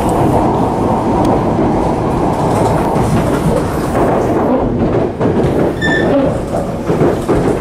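E7 series Shinkansen heard from inside a passenger car while running: a steady rumble with wheels clicking over rail joints, and a brief high tone about six seconds in.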